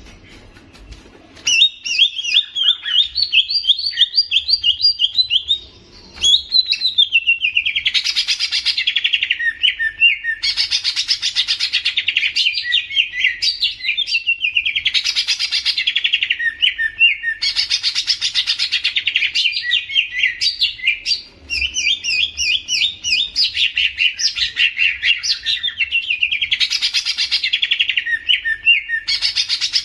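A songbird singing a loud, rapid, varied song of chattering trills and quick repeated notes. It starts about a second and a half in and goes on almost without pause, breaking off briefly twice.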